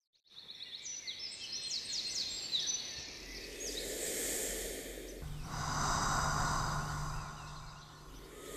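Birds chirping over a soft nature ambience, with a breathy whooshing swell rising twice and a low steady drone coming in about five seconds in.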